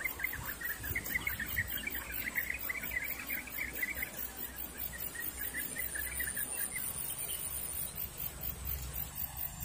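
A small bird chirping in a fast, uneven run of short high notes that fades out about two-thirds of the way through.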